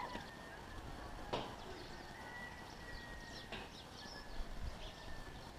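A bird tapping its beak against window glass: two faint sharp knocks about two seconds apart. Faint high bird chirps can be heard behind.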